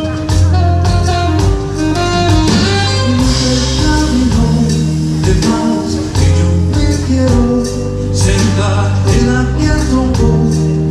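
Live Latin band playing a Cuban son: plucked guitar over a steady bass line with percussion, and singing.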